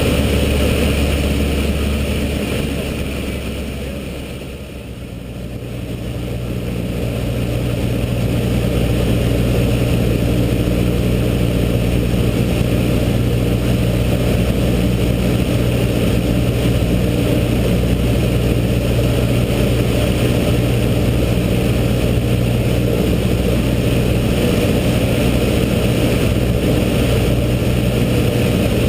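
Cessna 152's four-cylinder Lycoming piston engine and propeller droning steadily in flight. Its loudness dips briefly about four to five seconds in, then the engine note comes back a little higher in pitch and holds steady.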